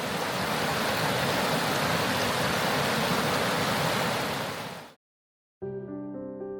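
Steady rush of river water spilling over drops in a stony riverbed, fading out about five seconds in. After a short silence, piano music begins near the end.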